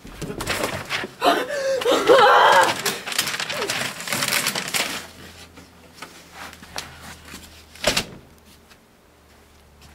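A person's loud vocal outburst, wavering up and down in pitch, for a few seconds. A single thud follows about eight seconds in.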